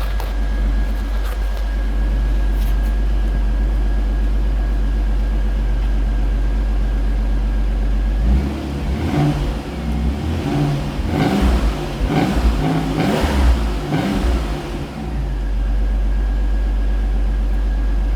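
1990 Chevrolet Beretta Indy's 3.1-litre V6 idling steadily at the exhaust. About eight seconds in it is blipped up several times over some seven seconds with a little growl from the exhaust, then settles back to a steady idle.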